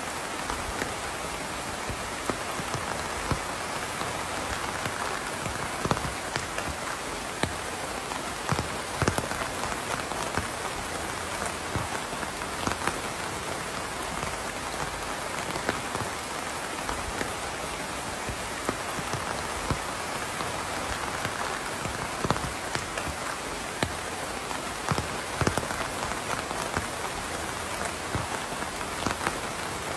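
Steady rainfall: a dense, even hiss with many individual drops ticking sharply on a hard surface.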